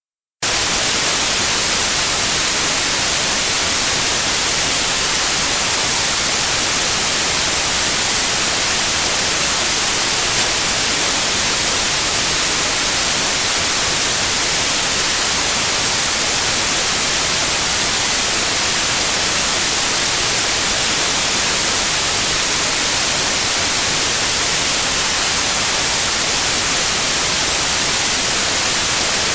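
Synthetic tinnitus-therapy signal: a steady high-pitched pure tone at 9645 Hz over constant white noise, with the noise coming in about half a second in.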